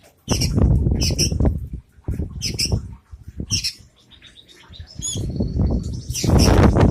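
Long-tailed shrike (cendet) giving short, sharp high-pitched calls in quick bursts, with a thinner whistled phrase about two-thirds of the way through. Loud low rustling bursts run along with the calls and are loudest near the end.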